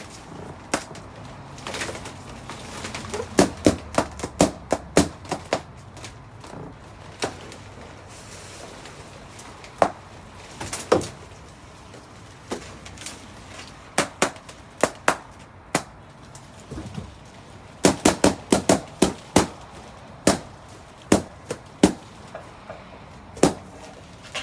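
Balloons popping one after another inside a truck, dozens of sharp pops at irregular intervals, with quick runs of them about three seconds in and again near eighteen seconds.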